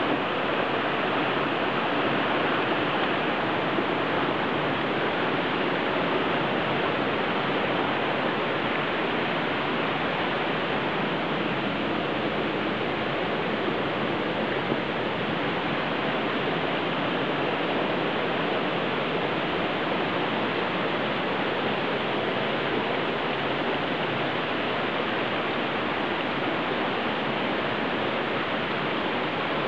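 Hot spring water pouring and splashing steadily from its source, a constant, unchanging sound of falling water.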